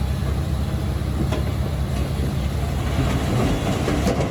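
Small crawler bulldozer's diesel engine running steadily under a low rumble, with metallic clattering from its tracks and a couple of sharp clanks.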